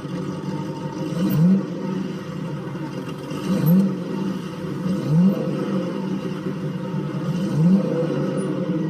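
White Outdoor lawn tractor's small engine running steadily just after starting on a freshly fitted carburetor, with the choke on. It is blipped up briefly four times, each a short rising rev that drops back.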